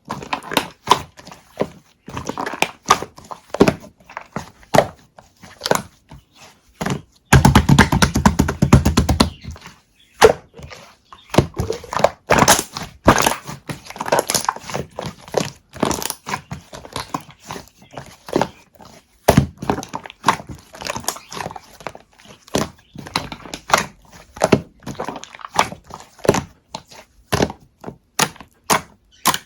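A steady series of small sharp taps, clicks and knocks, like objects being picked up and set down on a hard surface. About seven seconds in comes a two-second rapid rattle of closely spaced strokes.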